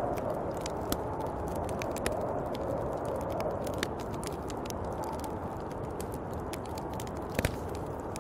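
Snowstorm wind blowing steadily, a low rush that swells and eases, with scattered sharp ticks and crackles throughout and a louder double crack near the end.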